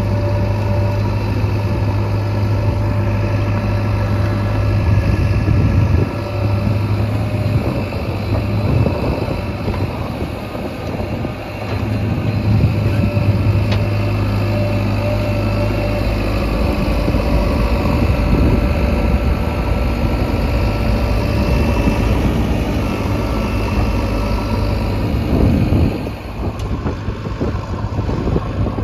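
Diesel engine of a JCB 3DX Xtra backhoe loader running steadily as it works, its level rising and falling every few seconds and dropping near the end.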